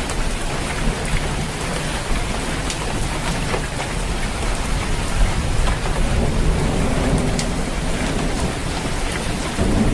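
Steady rain falling on a roof, with scattered sharper drop ticks over a low, continuous rumble.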